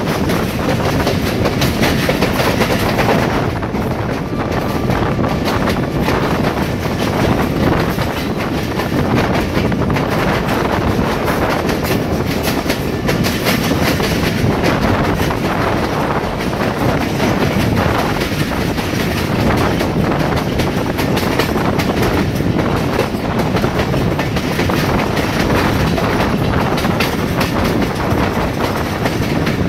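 Pakistan Railways train running on a rough branch line, its wheels clattering steadily over the rail joints and the coaches rattling and shaking.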